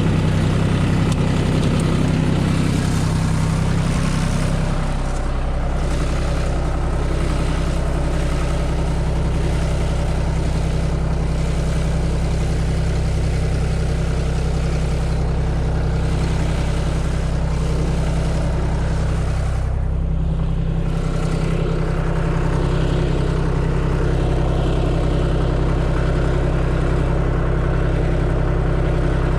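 Vehicle engine running steadily, its note shifting about five seconds in and again briefly around twenty seconds.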